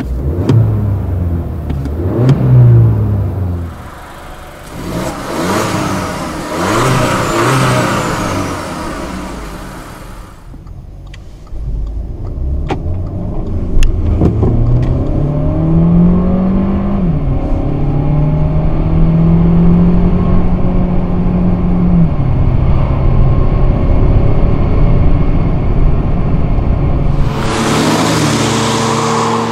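Audi A3 Sedan 1.4 TFSI turbocharged four-cylinder petrol engine heard from inside the cabin, pulling hard through the gears. Its note rises and drops back at each quick upshift of the S tronic dual-clutch gearbox, then makes one longer pull and settles to a steady cruise. Near the end it gives way to a broad rushing road noise.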